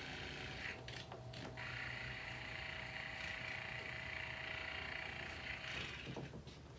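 Battered electric table fan running: a steady motor whine over a rushing noise, cutting out briefly about a second in and dying away near the end.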